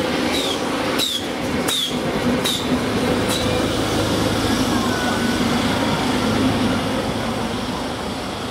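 Renfe regional electric multiple unit running past and pulling away. Its wheels click sharply four times in the first few seconds, then it settles into a steady running hum that fades slightly near the end as the train moves off.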